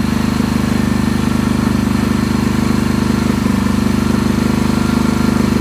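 Suzuki ST250E's single-cylinder four-stroke engine idling steadily through an aftermarket muffler, with an even, unchanging pulse.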